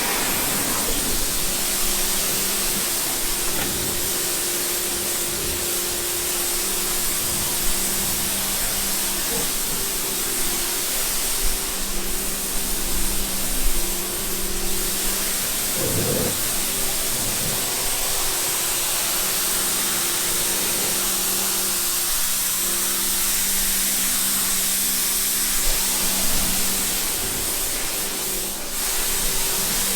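A steady hiss with a constant low hum under it, and a few dull knocks, the loudest about halfway through.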